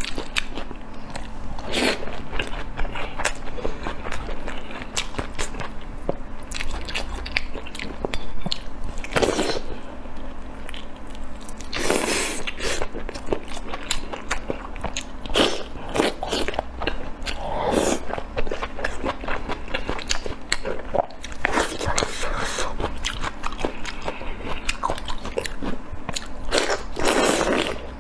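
Close-miked eating: a person biting and chewing food, a steady run of small wet clicks and crunches with louder bites every few seconds.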